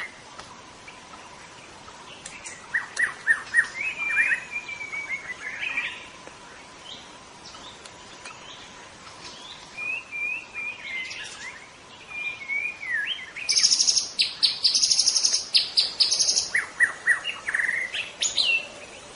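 White-rumped shama (murai batu) singing a varied song in full voice: runs of quick repeated notes, whistled phrases that slide up and down, and, a little past the middle, about two and a half seconds of loud, very fast, high chattering.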